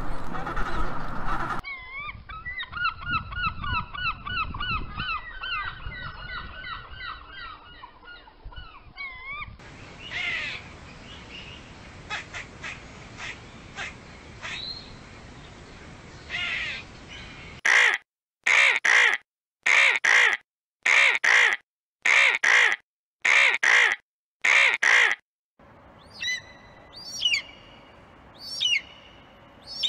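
A run of short animal-call clips with abrupt cuts. A penguin's call ends about two seconds in. Fast repeated gull calls follow, then a squirrel's scattered chirps and clicks, then about nine loud harsh vulture screams about a second apart. Near the end come three or four sharp, rising-and-falling eagle screeches.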